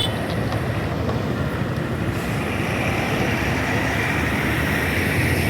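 Freight train rolling across a railway bridge: a steady, loud rumble, with a higher rushing hiss that grows stronger about two seconds in.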